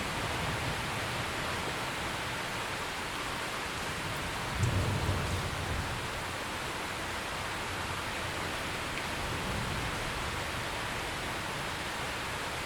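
Steady heavy rain, with a short low rumble of thunder about five seconds in.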